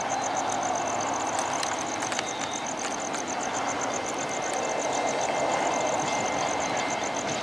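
Distant diesel-hauled CBH grain train approaching, a steady low rumble. Above it runs a fast high-pitched pulsing of about eight beats a second.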